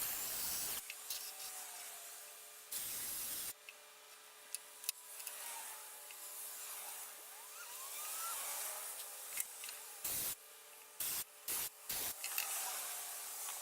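Power drill boring pilot holes in wood in several short bursts, with a faint steady hum between them.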